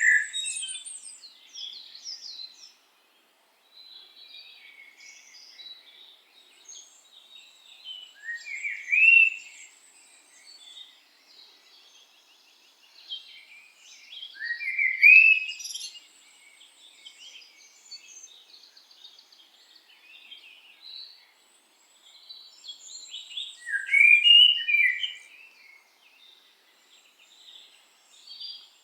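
Small birds singing and chirping, a dense run of short high twitters with three louder rising phrases standing out.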